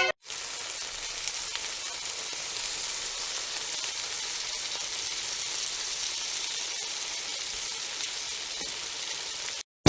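A steady, even hiss that starts just after the music stops and cuts off abruptly shortly before the end.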